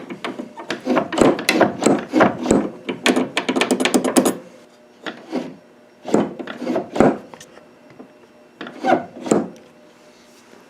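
Wooden parts of a pump organ's pedal assembly rubbing and scraping as they are worked by hand: a dense run of short strokes for about four seconds, then three shorter bursts with pauses between them.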